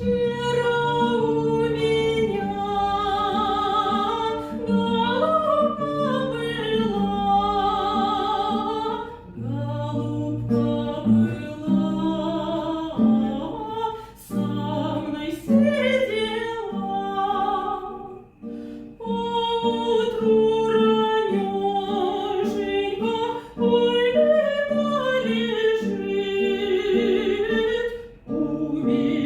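A solo voice singing a romance in classical style, with vibrato on its held notes, over instrumental accompaniment. There are short breaks between the phrases.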